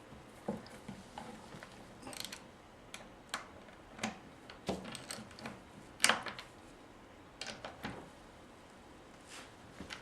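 Irregular clicks and short scrapes of a wrench tightening the chainsaw's bar nuts onto the guide bar cover, the loudest click about six seconds in.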